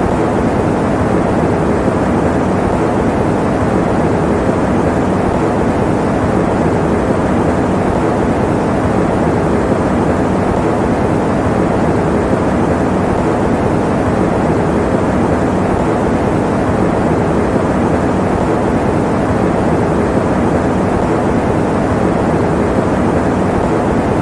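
Electric fan running steadily: an even, low rushing whir with no changes, played as white noise for sleep.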